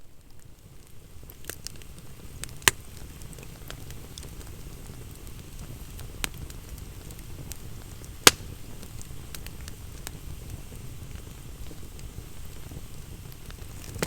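Wood campfire burning and crackling, with scattered small snaps and two loud pops about three and about eight seconds in.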